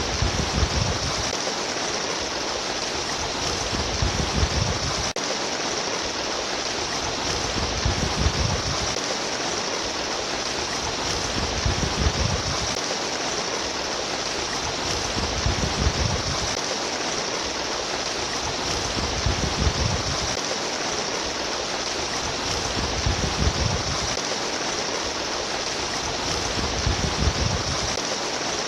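A stream of water trickling and babbling in a steady rush, with a low rumble that swells about every four seconds.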